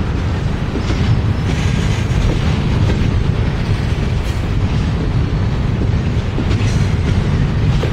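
Freight train of double-stack well cars rolling past: a loud, steady rumble of steel wheels on rail, with a few faint clicks from the wheels and couplers.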